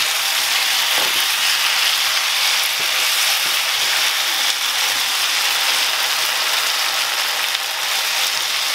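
Chicken pieces in masala sauce sizzling in an open frying pan, a steady hiss with a few light clicks and scrapes of a wooden spatula stirring them as the chicken browns.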